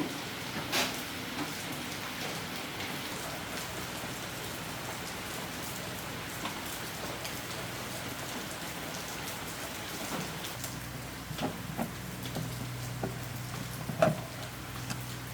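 Steady rain pattering during a storm, with a few sharp knocks. About two-thirds of the way through, a low steady hum joins in.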